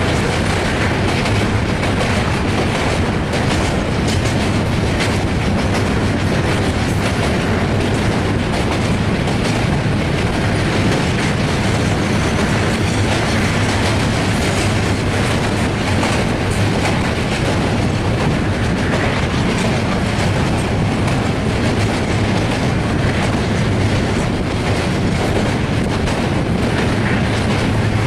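Passenger train running over a steel railway bridge: a steady, loud rumble of wheels on rails with fast clickety-clack, without letting up.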